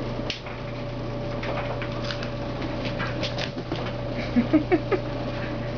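Kittens playing: light scattered taps and patter, with four quick, short rising squeaks about four and a half seconds in.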